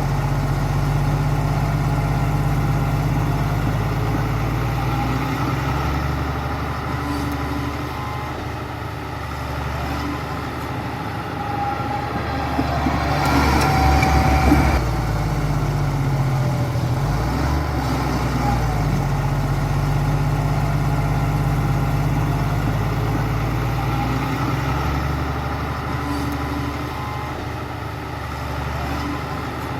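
Heavy diesel construction machine engine running steadily, growing louder with a rattle for a couple of seconds about halfway through.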